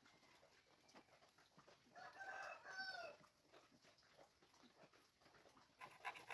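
Near silence, with one faint drawn-out animal call about two seconds in, lasting about a second and falling in pitch at its end, like a distant rooster crow.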